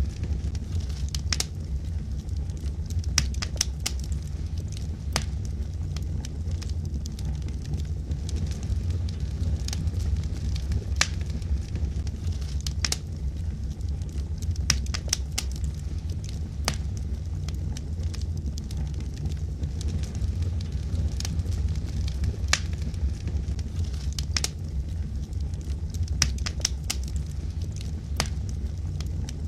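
Wood fire burning in a fireplace: a steady low rumble of flame with frequent sharp, irregular crackles and pops from the burning logs.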